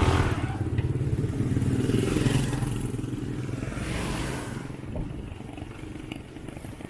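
A motor vehicle's engine running close by and then fading as it pulls away.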